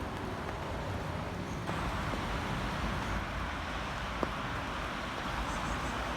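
Steady rain falling in a forest, an even hiss that steps up abruptly and grows louder about two seconds in. A few faint high chirps sound near the end.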